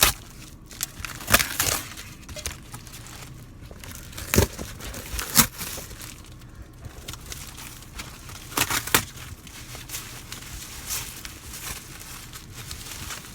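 Packaging crinkling and tearing as a boxed muffler is unwrapped, with a handful of sharp cracks scattered through.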